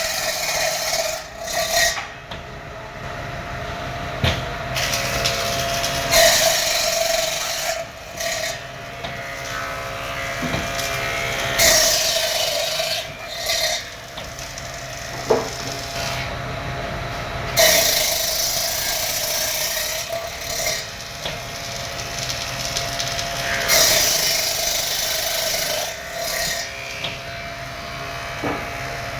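A woodworking power machine running with a steady hum, cutting wood in a loud rasping pass about every six seconds, with smaller knocks between the passes.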